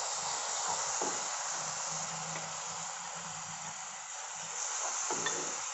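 Onion-tomato gravy sizzling in hot oil in a pan as yogurt is stirred into it: a steady hiss with a few light knocks from the bowl and spoon.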